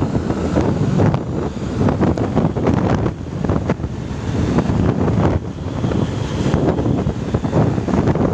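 Sumber Jaya Trans bus engine running hard under load on a climb, with heavy wind buffeting on the microphone.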